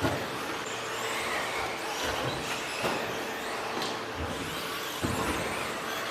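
The brushless electric motors of several 13.5-turn RC stadium trucks racing on a dirt track, whining up and down in pitch over a steady hum. There are a few sharp knocks: at the start, about three seconds in and about five seconds in.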